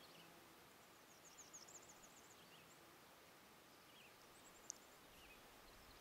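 Near silence on a still river, with a faint songbird: a quick series of high, down-slurred notes about a second in and a few soft chirps after. A single sharp click comes a little before the end.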